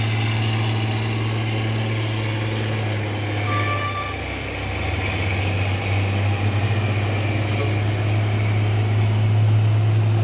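A heavy truck's diesel engine running steadily close by, easing off briefly about four seconds in before picking up again. A short high-pitched tone sounds once just before the dip.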